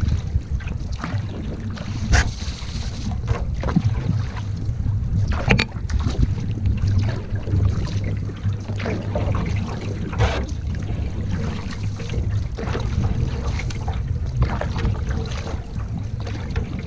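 Canoe paddle dipping and pulling through the water, with irregular splashes and drips, over a steady low rumble of wind buffeting the microphone.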